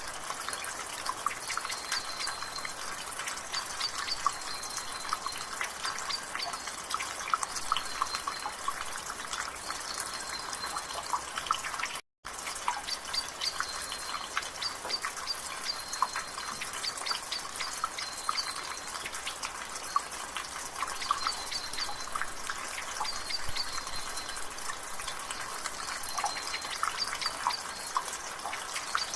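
Rainwater dripping and trickling from a gutter in steady rain, a dense run of irregular drips and splashes. A bird calls in the background with short high notes repeated every second or two. The sound drops out for a split second about twelve seconds in.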